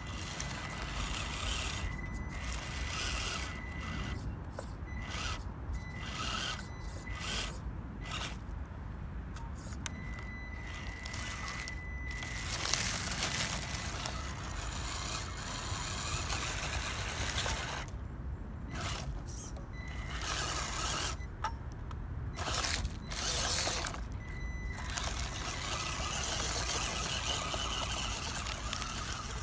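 Electric RC off-road truck driving over rough ground, its motor and gears whining in short spurts as the throttle is worked on and off, with a steady low rumble of wind on the microphone.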